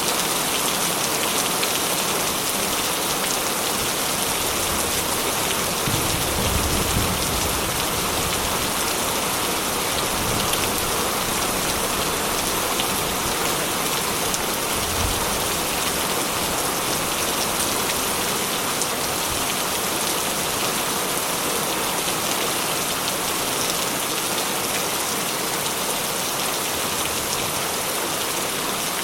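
Heavy rain drumming steadily on a corrugated metal roof, a dense even patter, with a brief low rumble about six seconds in.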